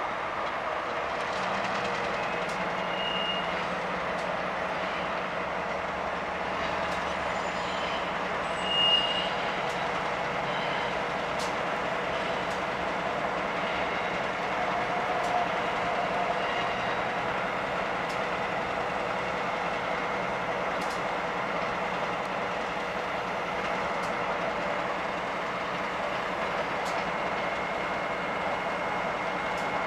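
Steady distant rumble of a rail yard and highway as an Amtrak ACS-64 electric locomotive pulls a Northeast Regional train slowly away, getting up to speed. Two short high beeps sound, about three seconds in and again about nine seconds in.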